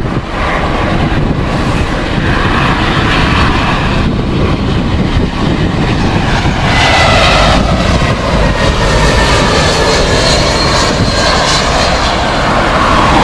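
Jet airliner's engines running as it passes close by: a steady rumble, with a whining tone that grows stronger about halfway through. Wind noise is on the microphone.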